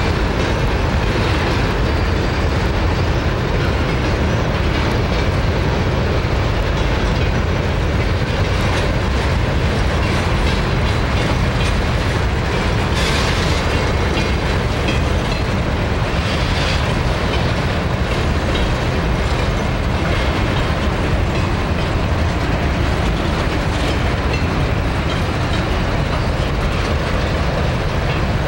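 A long freight train of empty covered grain hopper wagons rolling past close by. Steel wheels make a steady, loud rolling rumble on the rails.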